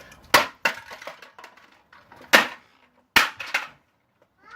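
Sharp knocks and clatters of hard pieces from a smashed vacuum cleaner, about five strikes, the loudest about two and a half seconds in.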